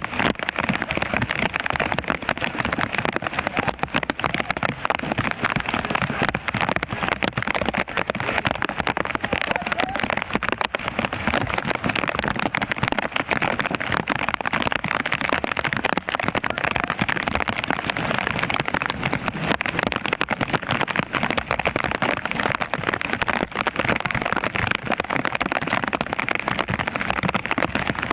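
Steady rain falling, an even hiss made of countless fine drop impacts, fairly loud.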